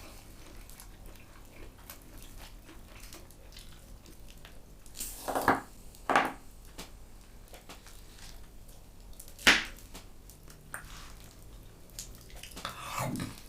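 A few short, sharp clicks and knocks over a quiet background: a cluster about five to six seconds in, then a single loud one near the middle.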